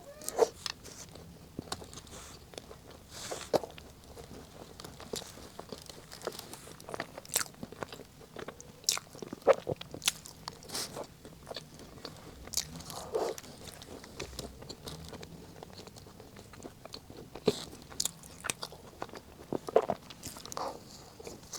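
Close-miked eating of a Chaoshan chestnut cake: bites into the slightly crisp pastry and chewing, heard as irregular crisp crunches and small mouth clicks.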